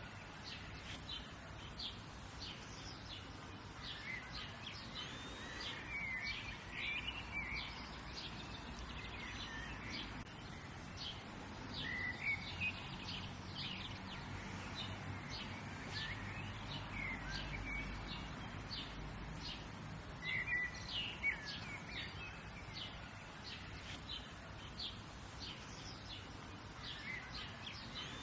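Several wild birds chirping and singing outdoors, many short quick chirps with now and then a warbled phrase, over a steady low background rumble.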